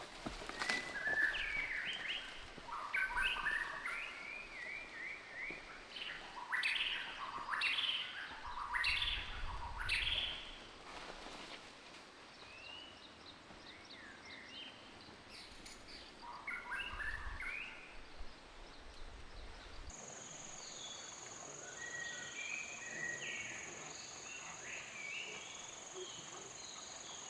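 Wild birds singing in the forest, a run of short chirping and trilling calls that comes and goes. About two-thirds of the way through, a steady high insect buzz sets in under the birdsong.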